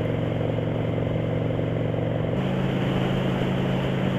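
Motorcycle engine running steadily under way, with wind and road noise around it; the engine note steps up in pitch about two and a half seconds in.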